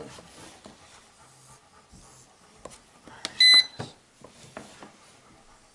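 Stanley FatMax 12-volt jump starter pack powering on: a button click, then one short high electronic beep about three and a half seconds in, with faint handling clicks around it.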